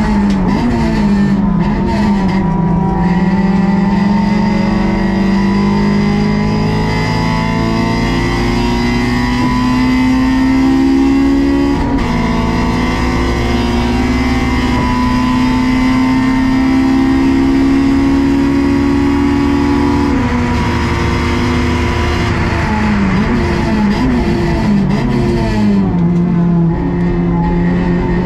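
Honda S2000 AP2's stock 2.2-litre four-cylinder engine driven hard on track. Its pitch drops sharply under braking at the start, then climbs steadily through the revs with a quick dip at an upshift about twelve seconds in. Near the end it falls in a run of quick downshifts before pulling up again.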